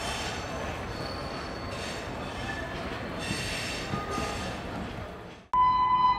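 Passenger train of LHB coaches running on the track: a steady rush of wheels on rails with a few short, faint high squeals. It fades out about five seconds in, and an outro tune with held electronic notes cuts in about half a second later.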